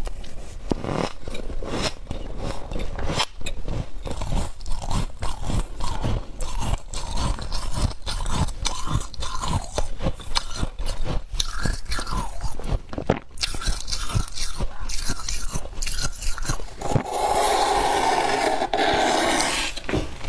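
Thick humidifier frost (soft freezer frost) crunched and chewed close to the microphone: a rapid, irregular run of crisp crunches. Near the end comes a continuous noise lasting about two and a half seconds.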